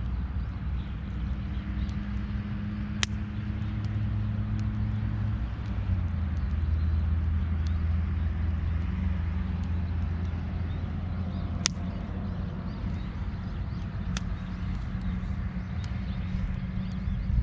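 A low engine hum, steady, with a shift in pitch about six seconds in, and a few single sharp clicks.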